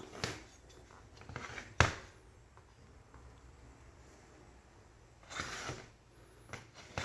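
Handling noises: one sharp knock about two seconds in, the loudest sound, with quieter rustles and clicks around it and a short rustling stretch a little after five seconds.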